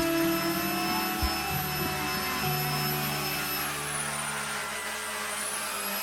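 Vacuum cleaner running steadily with a high motor whine that dips in pitch and recovers near the end, and two short knocks near the start.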